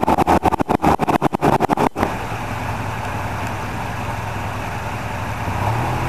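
2007 Polaris Ranger XP utility vehicle's engine running. The first two seconds are choppy, broken up by rapid dropouts in the recording, then it settles into a steady low drone and revs up near the end.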